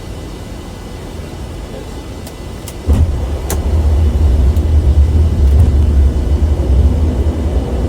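Low rumble of an airliner's flight deck in flight, jumping suddenly louder about three seconds in and staying loud, with a few sharp clicks around the jump.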